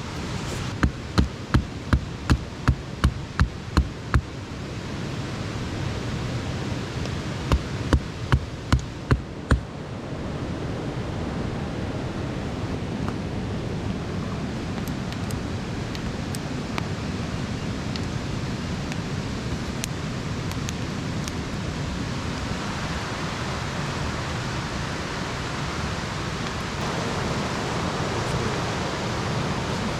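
A run of about nine sharp, evenly spaced knocks, roughly two or three a second, then after a short pause five more, over a steady hiss that continues after the knocking stops.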